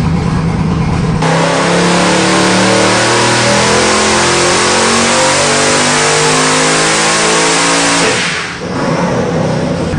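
Boosted 380-cubic-inch LSX small-block V8 on an engine dyno: idling, then about a second in it goes to wide-open throttle for a loud pull of about seven seconds, cut off suddenly near the end and dropping back to idle.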